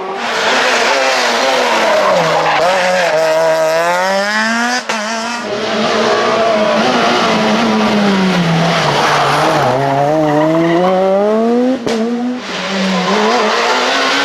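Super 2000 rally car's two-litre four-cylinder engine revving hard on a stage, its pitch climbing and dropping again and again as it goes through the gears. The sound breaks off abruptly twice as it cuts to another pass.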